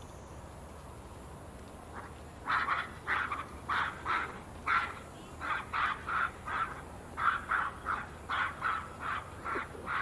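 A bird calling over and over in short notes, about three a second, starting about two and a half seconds in.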